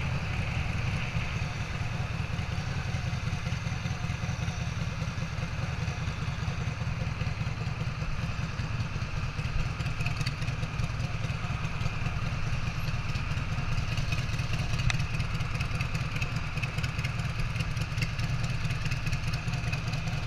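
Harley-Davidson Sportster 883 air-cooled V-twin, big-bored to 1250, idling steadily.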